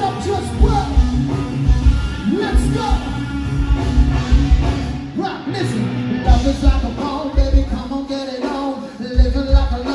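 A rock song with a lead singer over a steady drum and bass beat.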